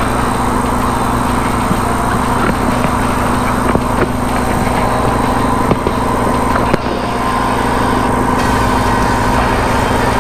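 Off-road race car's engine running steadily at an even pitch, heard from inside the cockpit, with a few sharp knocks and clicks from the cabin.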